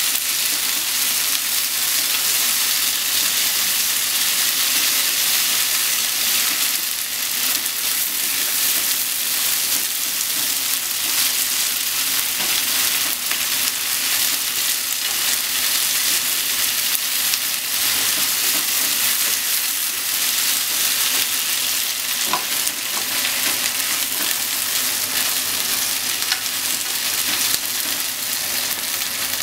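Sliced beef and onion sizzling steadily in a non-stick frying pan while being stirred and tossed with wooden chopsticks, with an occasional light tap of the chopsticks.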